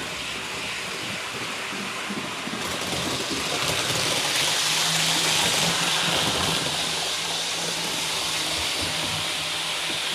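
HO-scale REE TGV model train running on the layout: a steady rushing of wheels on track with a faint motor hum. It grows louder about four seconds in, then eases off.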